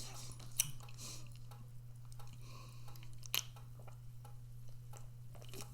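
A person chewing food, with soft wet mouth sounds and a few sharp clicks, over a steady low hum.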